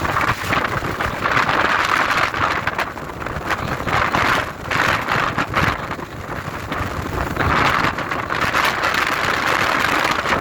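Strong wind blowing over the microphone: a loud, steady rushing that swells and eases twice, with low rumbling buffets.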